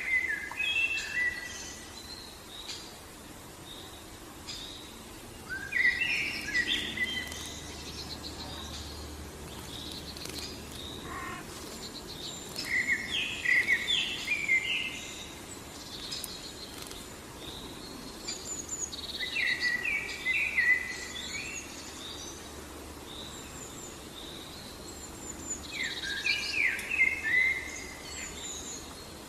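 A songbird repeating the same short, complex song phrase five times, one about every six to seven seconds, with fainter high chirps between phrases over steady background noise.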